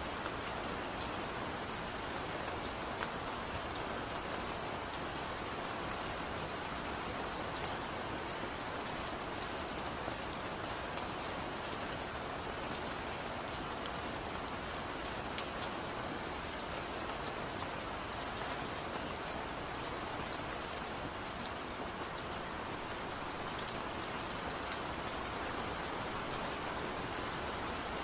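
Steady rainfall, an even hiss of rain falling on a surface with scattered sharper drop ticks.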